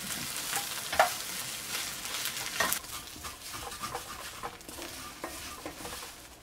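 Fried rice sizzling in a small cast iron skillet while a wooden spatula stirs and scrapes it, with a couple of sharp scrapes against the pan. The sizzle grows quieter toward the end.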